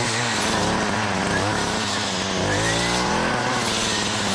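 Small two-stroke engine of a handheld power tool revving hard, its pitch dropping back and climbing again a few times as it works.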